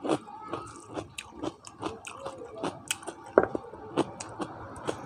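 Close-miked chewing of boiled chicken and rice: wet mouth smacks and sharp clicks, several a second, uneven.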